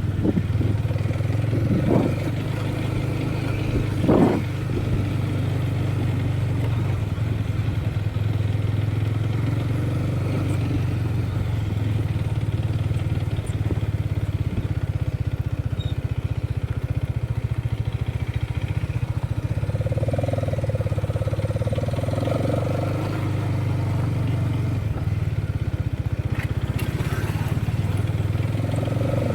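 Motorcycle engine running steadily with a constant low hum, with two short knocks about two and four seconds in.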